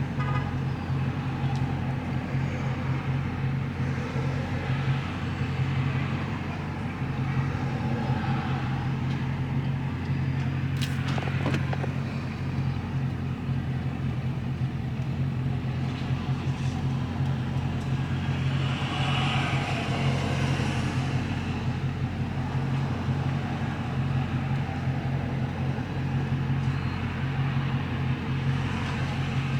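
Car engine and road noise heard from inside the cabin while driving slowly: a steady low drone, with a brief click about eleven seconds in.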